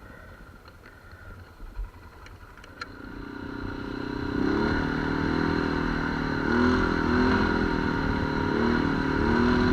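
ATV engine under way: for about three seconds only a low rumble with a few clicks, then the engine grows louder as the machine pulls away and runs on with its pitch rising and falling as the throttle changes.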